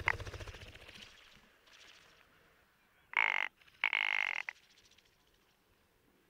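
Rock ptarmigan calling with harsh croaks. A call at the very start trails off over the first second, then two short croaks come close together about three seconds in.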